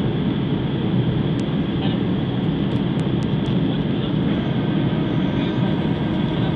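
Airliner cabin noise on the descent to landing: the steady rush and rumble of jet engines and airflow around the fuselage, with a faint steady whine joining about four seconds in.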